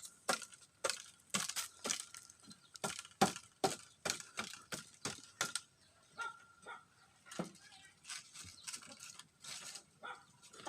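Dry twigs and firewood crackling and snapping in many irregular sharp cracks.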